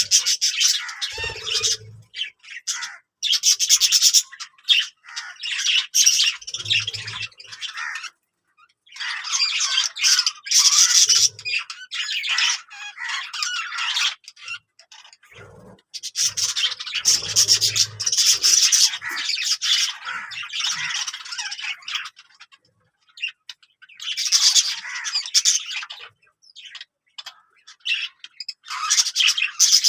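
Budgerigars chattering and warbling in bursts, with short pauses in between. A few soft low knocks come in among the calls.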